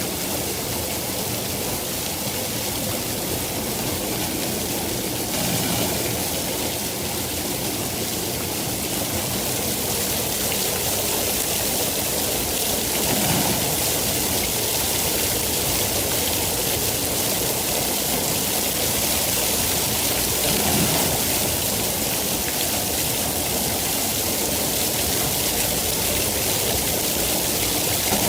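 Steady rain falling, a continuous even hiss, with a couple of faint low swells along the way.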